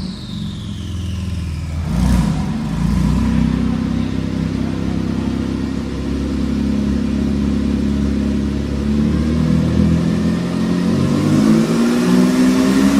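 Porsche 992 GT2 RS twin-turbo flat-six running through a Capristo stainless sport exhaust. After a short sharp sound about two seconds in, it holds a steady note, then the revs rise near the end as the car accelerates.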